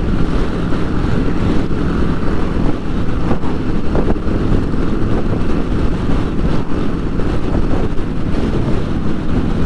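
KTM motorcycle cruising at steady speed, heard from the rider's helmet microphone: a steady engine hum under heavy wind buffeting and road noise.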